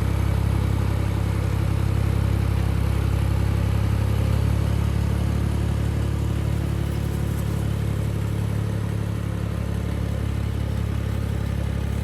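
Ford 3930 tractor's three-cylinder diesel engine running steadily as the tractor is driven, a deep, even engine sound.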